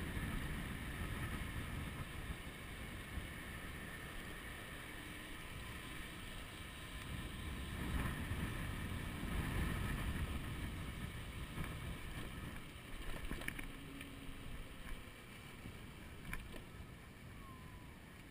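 Wind buffeting the microphone of a chest-mounted camera while riding an electric bicycle: a gusting low rumble that swells and eases, with a few faint clicks and a lighter wash near the end.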